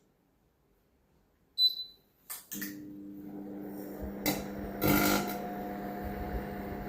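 Electrolux microwave oven being test-run after its magnetron was replaced: a short high keypad beep, a couple of clicks as it switches on, then the steady hum and whir of the oven running.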